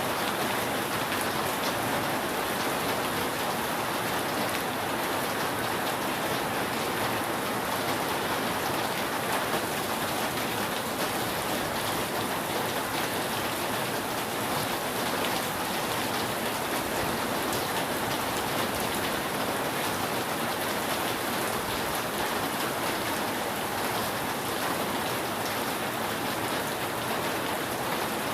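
Steady rain falling on a roof: an even, unbroken patter of many drops.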